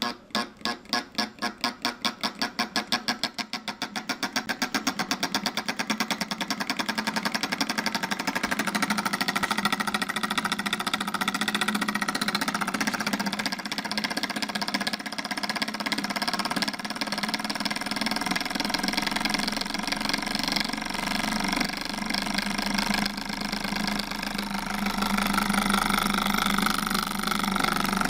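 Model 12-volt solenoid engine running up to speed: its clacking strokes start at two or three a second and quicken steadily over the first several seconds until they blur into a fast, even clatter.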